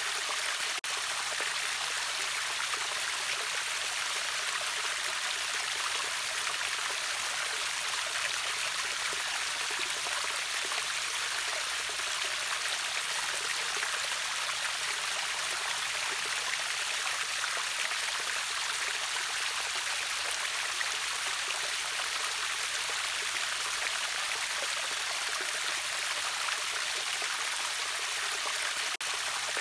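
Continuous rushing of water from a river waterfall, a steady bright hiss with little deep rumble. There is a brief dip in level about a second in.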